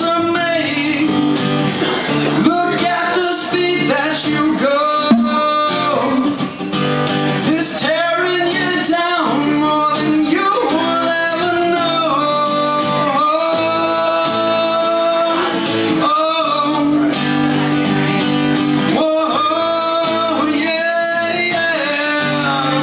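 A live song: a man singing over a strummed guitar.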